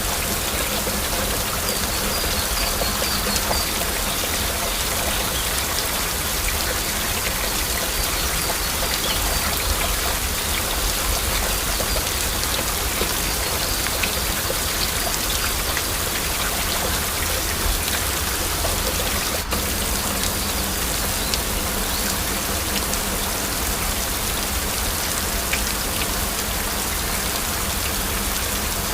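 Heavy rain falling steadily, a dense patter of individual drops over a constant wash of rain noise, with a momentary dip in level about two-thirds of the way in.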